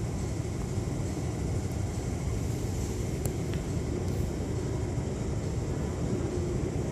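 MTR West Rail Line IKK electric train running through an underground station platform: a steady rumble.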